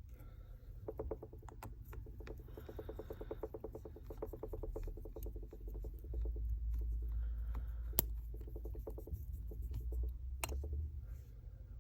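Small repair tools scraping and rubbing on a smartphone's internal parts, in fast scratchy strokes, with one sharp click about eight seconds in, over a steady low hum.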